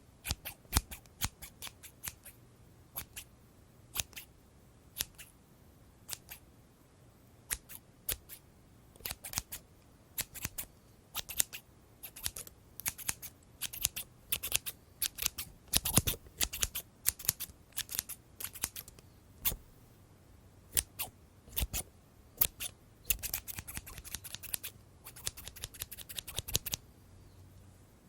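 Scissors snipping: a long series of sharp, crisp snips at an uneven pace, sparse at first and then in quick runs, stopping shortly before the end.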